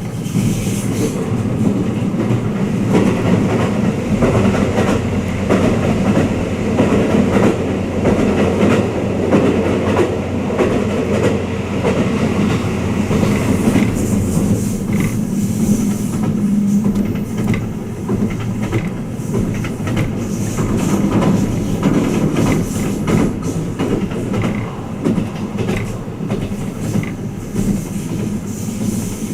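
Twilight Express Mizukaze luxury train running, heard from inside a passenger cabin: a steady rumble of wheels on the rails, with frequent clicks and knocks from the track.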